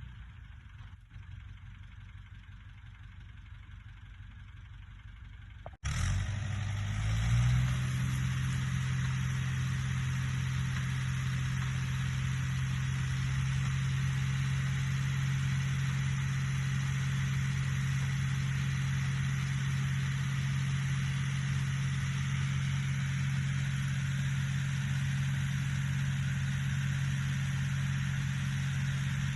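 Fordson E27N tractor's Perkins P6 six-cylinder diesel: a quieter low rumble at first, then, after an abrupt cut about six seconds in, the engine running loud and steady at a constant speed.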